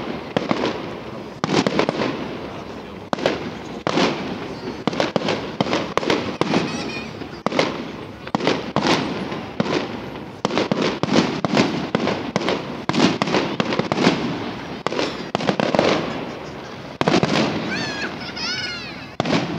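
Fireworks salute: a rapid series of loud aerial shell bursts, bang after bang every half second to second or so, each trailing off in a rolling echo. A few high whistling glides sound among the bangs near the end.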